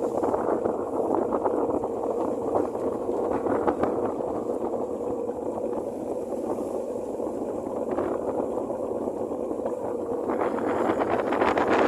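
Boat at sea: a steady engine hum under a rush of water and wind, which grows louder and brighter about ten seconds in.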